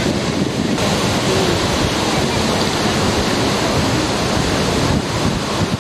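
Steady, loud rushing of sea surf and water, with wind blowing over the microphone.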